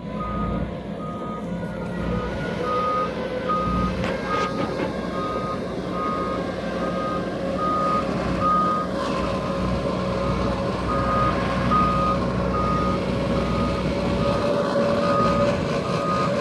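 A vehicle's reversing alarm beeping steadily, about two beeps a second, over the drone of a running engine whose whine slowly rises in pitch.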